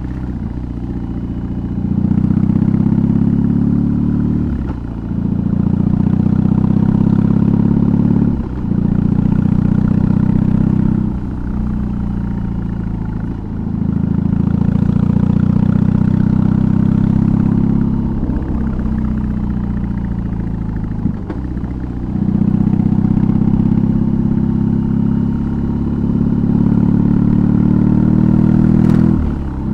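BMW R18's big air/oil-cooled boxer twin, fitted with a custom exhaust, running under load on the road. The engine note is deep and steady, with brief dips every few seconds where the throttle closes before it picks up again.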